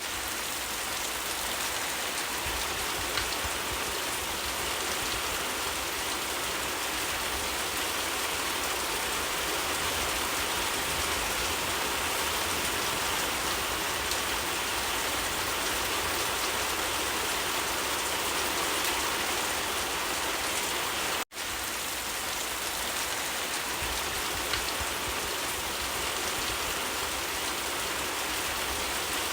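Steady rain falling, an even hiss of many drops. The sound cuts out for an instant about two-thirds of the way through.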